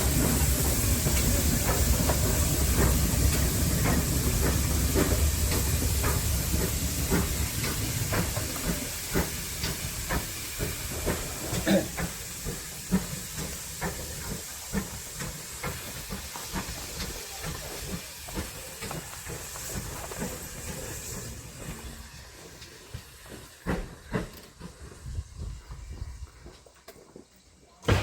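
Steam locomotive moving close by: a steady hiss of steam over a low rumble, with scattered metallic knocks, fading away over about twenty seconds.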